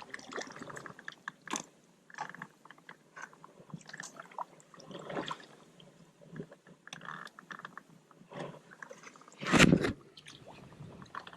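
Irregular crackling, crunching and rustling of brush and twigs being pushed through, with one louder thump near the end.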